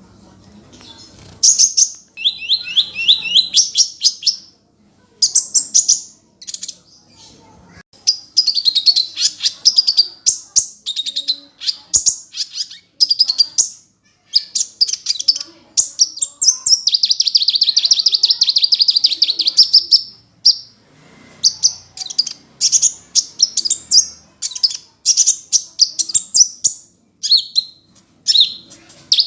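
Sunbird (a 'kolibri' in Indonesian bird-keeping) singing hard in a loud, fast, high-pitched song of rapid chirps and trills. The song comes in bursts of a second or several seconds with short pauses between them, including one long unbroken trill about halfway through.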